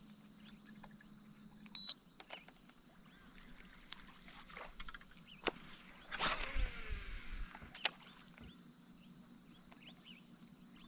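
Steady high-pitched insect chorus over the water, with a low hum that stops about two seconds in. A little after halfway there is a short loud noisy burst, with a few knocks around it.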